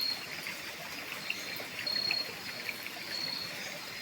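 Steady hissing background noise with a short, high chirp that repeats about every second and a half.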